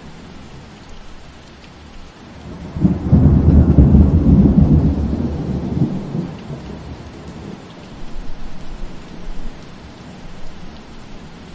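Steady rain falling through trees, with a loud low rumble of thunder starting about three seconds in and fading away over the next three seconds or so.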